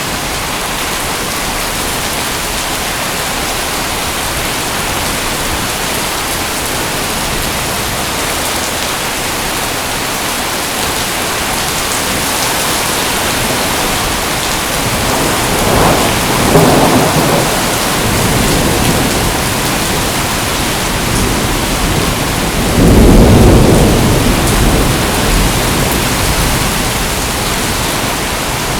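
Steady heavy rain, with rolling thunder rumbling twice, first about halfway through and louder about three quarters of the way in.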